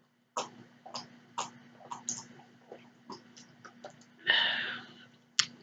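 Wet chewing and lip smacking while eating spaghetti, then a loud burp a little over four seconds in, lasting under a second.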